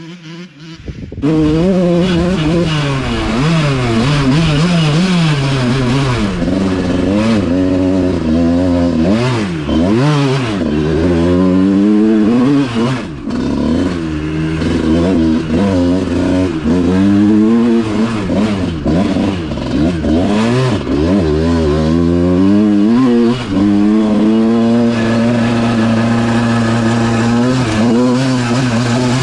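Motocross dirt bike engine revving up and down as it is ridden along a trail, its pitch climbing and dropping over and over with shifts and throttle changes, then holding a steady pitch for the last few seconds.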